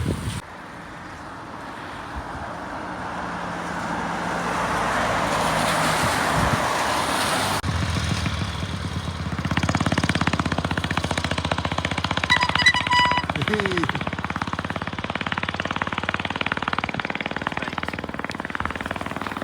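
A motor vehicle: a noisy rush swells in level, then cuts off abruptly. After that comes an engine running with a rapid, even pulsing, and a few short high beeps partway through.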